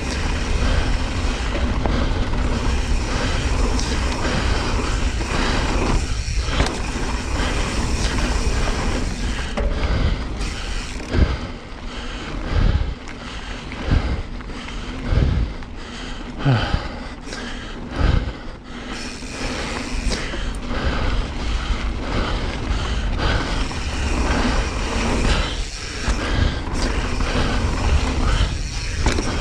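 Mountain bike riding fast down a dirt trail: wind rushing over the camera's microphone and tyres rolling on dirt, with a run of sharp knocks as the bike hits bumps in the middle stretch.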